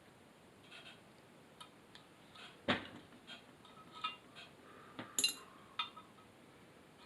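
Small metal carburetor parts clinking and knocking against each other and the bench as they are handled. The clinks are scattered, with a sharp knock about two and a half seconds in and a cluster of ringing clinks a little after five seconds.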